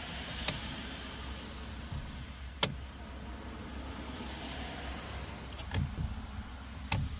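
Traffic passing on a nearby road over a steady low rumble, tyre hiss swelling and fading twice. Four sharp clicks or knocks break through, the loudest about two and a half seconds in.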